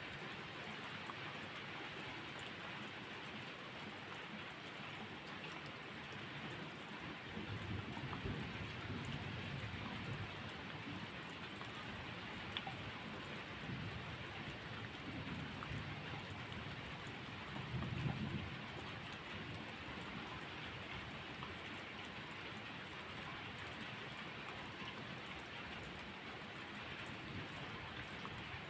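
Steady rain falling, an even hiss of drops, with low rumbles of thunder swelling up several times, the strongest about eighteen seconds in.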